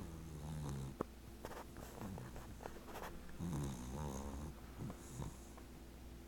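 An 18-week-old American Cocker Spaniel puppy snoring in her sleep: a few uneven snores, one with a wavering pitch, and a sharp little click about a second in.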